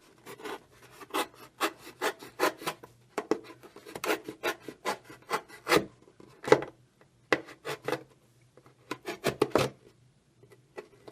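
A blade sawing through the wall of an orange juice container in short, irregular rasping strokes, about two or three a second, with a short pause near the end.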